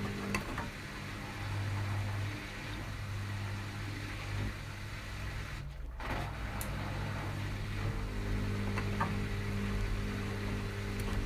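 Washing machines running with a steady motor hum, with a few faint clicks and a short break in the higher sound about six seconds in.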